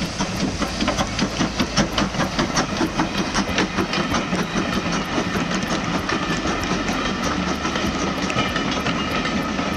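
A steam train of vintage Southern Railway carriages, hauled by an Ivatt 2MT tank engine, rolling past close by: the carriage wheels clatter over the rail joints in a quick, regular clickety-clack. A thin steady squeal from the running gear joins about halfway through.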